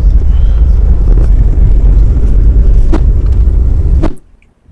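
Loud, steady low rumble of a moving Amtrak Auto Train heard from aboard, with two brief knocks, about three and four seconds in. The rumble cuts off abruptly about four seconds in.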